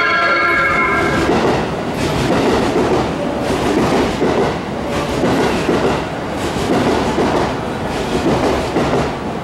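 JR West Special Rapid electric train pulling in along the platform, its wheels clattering over the rail joints as the cars pass. A pitched sound ends about a second in.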